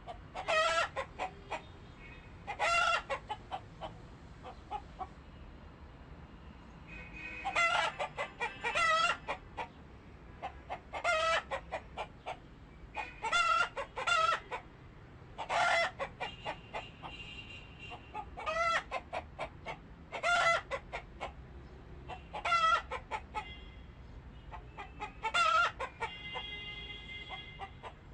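Chickens clucking, with a short pitched call about every two seconds and quick clucks in between.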